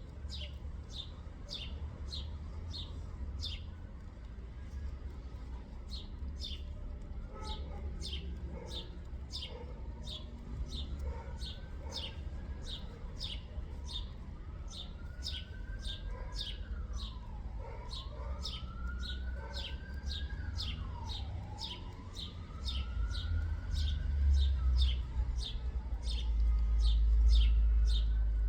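Birds calling: one bird repeats a short high chirp about twice a second, while slower whistles rising and falling in pitch come in through the middle. A low rumble grows louder near the end.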